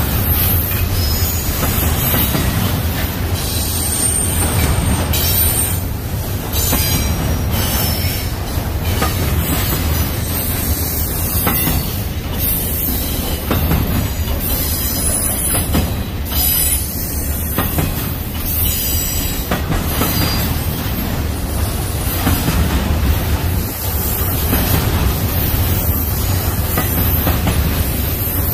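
Double-stack intermodal freight cars rolling steadily past: a continuous rumble of steel wheels on rail, with short high-pitched wheel squeals over it.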